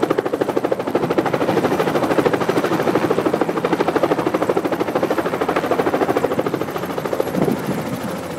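Tour helicopter's rotor beating in a fast, even rhythm; near the end the beat fades into a steadier engine hum.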